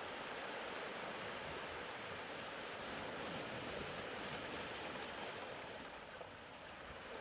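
Faint ocean-wave ambience: a soft, even wash of surf that swells gently and eases away near the end.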